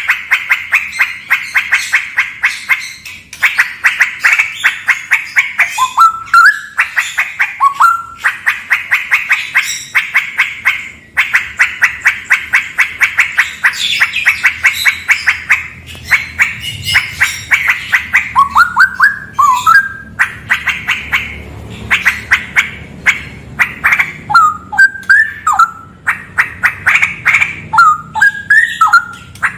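Straw-headed bulbul (cucak rawa) singing: long runs of rapid, buzzy pulsed trills at a steady pitch, broken every few seconds by short phrases of quick rising notes.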